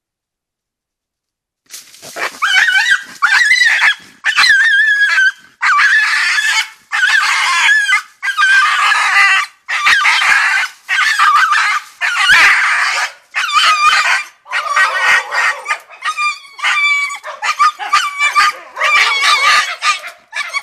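An animal caught in a trap squealing and yelping over and over in loud, wavering cries, about one a second, starting about two seconds in.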